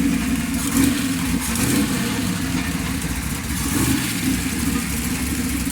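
Classic car's engine running steadily and loudly, with small swells in level. The car's leaking Holley carburetor has just been worked on.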